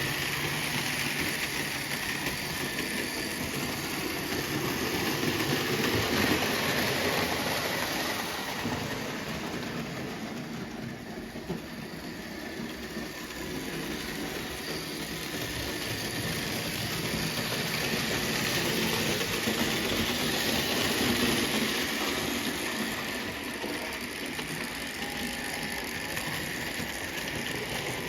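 Märklin BR 038 (3099) HO model steam locomotive and its coaches running on metal Märklin M track: a steady whirring motor and rumbling wheels that grow louder as the train passes close about six seconds in and again about twenty-one seconds in, and fade in between.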